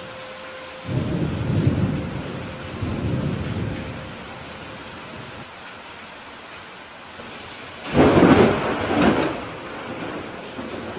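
Steady rain with thunder: low rumbles swell about a second in and again around three seconds, then a louder, sharper thunderclap breaks near the end and rolls off.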